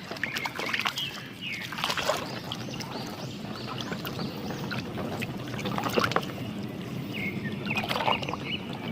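Water sloshing and trickling as a muddy toy vehicle is rubbed and rinsed by hand in a tub of water, with scattered small clicks.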